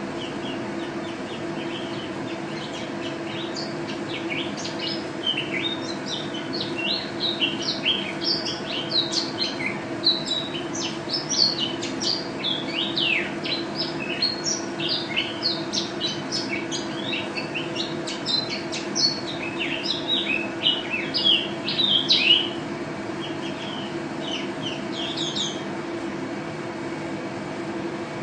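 A pleci (white-eye, Zosterops) singing in full, vigorous song: a fast, busy stream of high chirps and short trills that trails off near the end. A steady low hum runs underneath.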